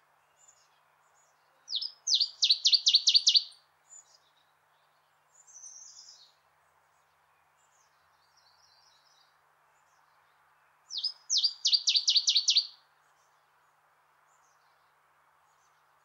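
Northern waterthrush singing twice, each song a quick run of about seven loud, sharp, high notes repeated evenly, with a few softer short notes between the two songs.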